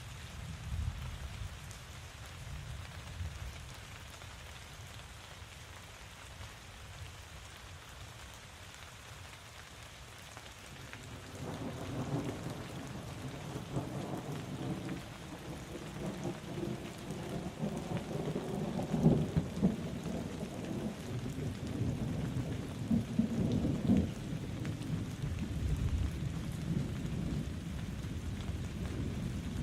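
Steady rain falling, joined about a third of the way in by a long, low roll of thunder that swells, peaks twice and rumbles on to the end.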